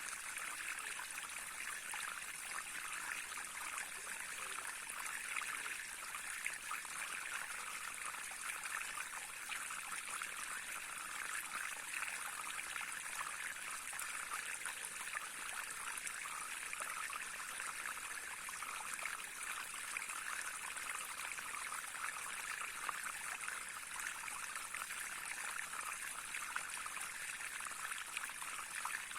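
Small stream flowing steadily over stones, a continuous burbling trickle with no change.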